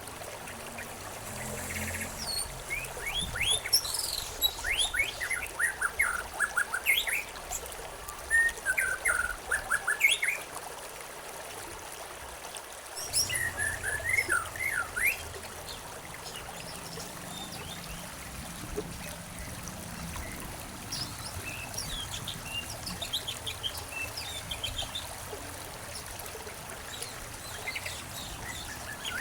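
Birds chirping and calling in quick, short notes over the steady trickle of a stream. The calls come thick for the first half and thin out to scattered, fainter chirps after about fifteen seconds.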